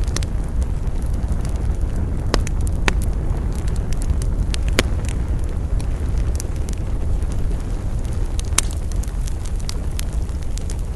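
Campfire burning with scattered sharp crackles and pops over a steady low rumble.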